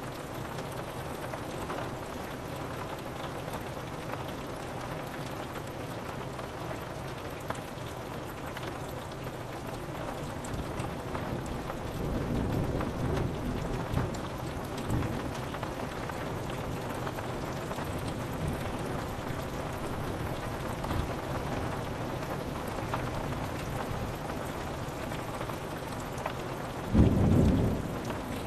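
Steady rain falling on a window pane with thunder: a low rumble about twelve seconds in, and a short, louder crack of thunder near the end.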